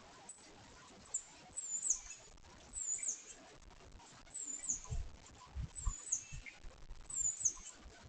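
A small bird giving short, very high, sharp chirps, about six of them a second or so apart, with a few soft low thumps in between.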